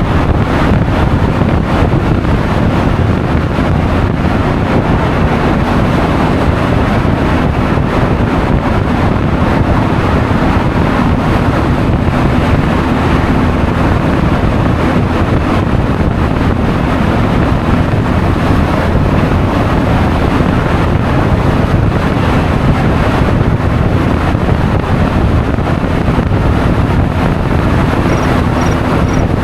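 Wind buffeting the action camera's microphone while riding a Honda Forza 350 scooter, with the scooter's single-cylinder engine and road noise underneath. A faint row of small, evenly spaced high ticks comes in near the end.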